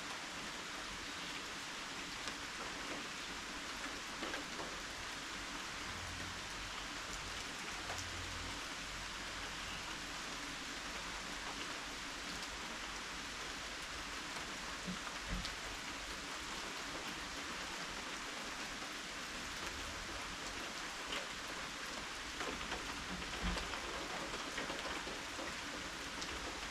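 Steady rain falling, heard as an even hiss with scattered faint drip ticks. Two brief low bumps stand out, about halfway through and near the end.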